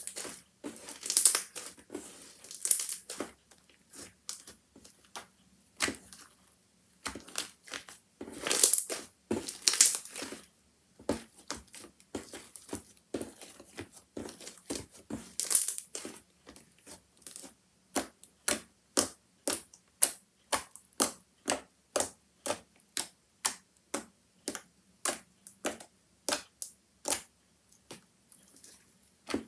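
Handmade slime being squeezed and pressed by hand, crackling and clicking with small popping sounds. It starts with irregular crunchy stretches and settles in the second half into a steady rhythm of sharp clicks, about one and a half a second.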